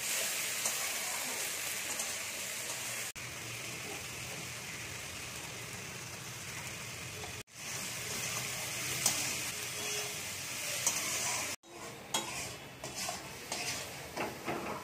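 Onions, tomatoes and cashews sizzling as they fry in a metal kadai, stirred with a metal spatula. In the last few seconds the spatula clinks and scrapes against the pan more often.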